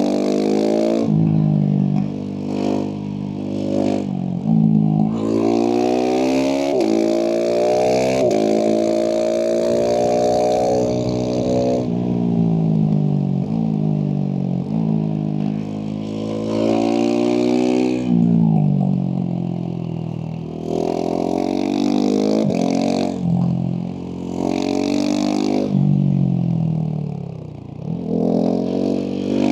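Husqvarna 701 SM's single-cylinder four-stroke engine through a Leovince slip-on exhaust, revving up hard again and again with a sharp drop in pitch between each climb. There are longer stretches where the revs fall off, and a deep dip near the end before it pulls again.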